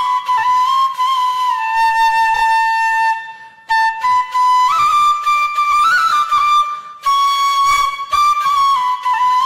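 Solo flute playing a slow melody of long held notes, with a short pause for breath about three and a half seconds in.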